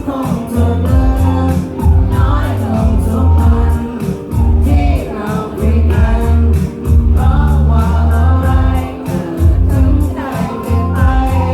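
A Thai pop-rock band playing a song live with a singer. A heavy bass line and a steady drum beat run under the vocal.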